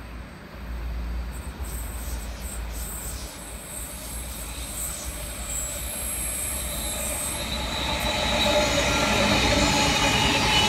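A Sydney Trains double-deck electric passenger train approaching and passing, getting steadily louder from about eight seconds in, with a high steady whine over the rolling rumble.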